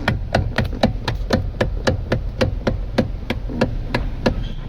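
Kia Cerato's column-mounted electric power-steering motor assembly knocking as the steering is turned, about four sharp knocks a second, a little uneven, over a steady low engine hum. The knocking is the steering fault that led to the motor being removed and refitted.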